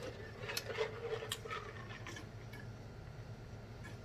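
Faint chewing and lip-smacking: soft, scattered wet mouth clicks from a man eating pig feet close to the microphone.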